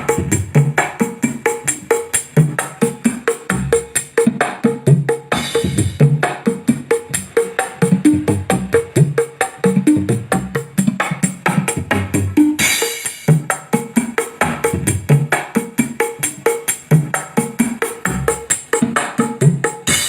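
Music with a fast, steady drum-and-percussion beat played loud through a miniature sound system's speakers during a sound test.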